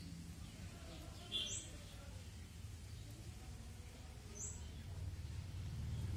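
Small bird chirping twice, two brief high chirps about three seconds apart, over a steady low outdoor rumble.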